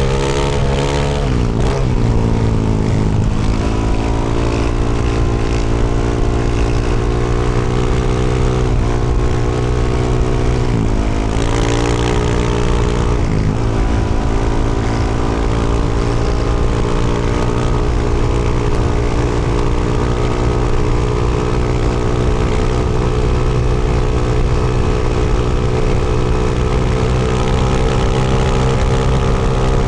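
2024 Yamaha YZ450F's single-cylinder four-stroke engine, fitted with a Yoshimura RS-12 exhaust, running loud and steady at a cruising speed. The revs dip briefly a few times in the first half as the throttle is eased off, then hold steady.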